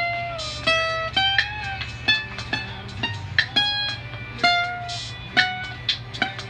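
Guitar playing a slow melody of single plucked notes, about two or three a second, several of them bent or slid up and down in pitch, over a steady low hum.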